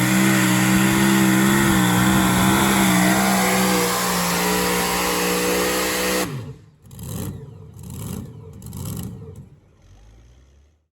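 Super modified two-wheel-drive pulling truck's engine running loud and steady at high revs under load, its pitch edging up, then cutting off suddenly a little past halfway. Three short swells of noise follow before it fades out.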